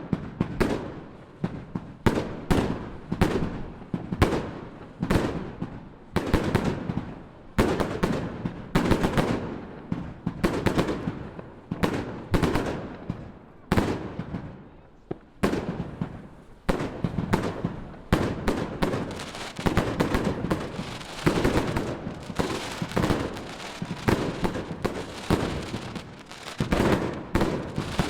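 Fireworks display: aerial shells bursting in a continuous run of sharp bangs, each followed by a short echo. The bangs come more thickly in the second half.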